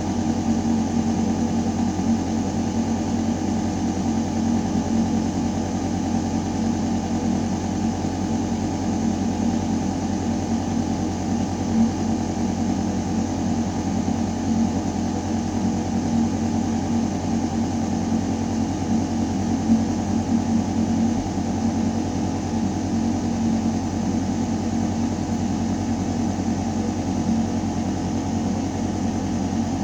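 Building ventilation system running: air moving through metal ductwork in a shaft, a steady low mechanical hum and drone that does not change.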